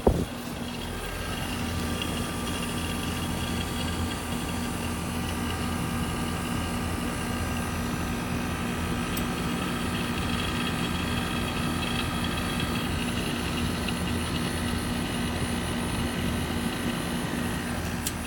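Trane heat pump system running: a steady machine hum with several held tones, without change.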